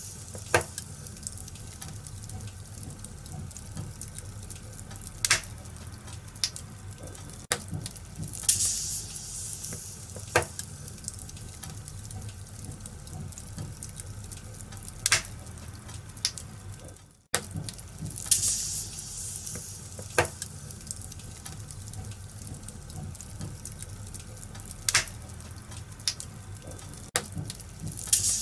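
Wood fire crackling in a fireplace: a steady hiss and low rumble with sharp pops every few seconds and short flares of high hissing. The same pattern repeats about every ten seconds, with a brief dropout a little after the middle.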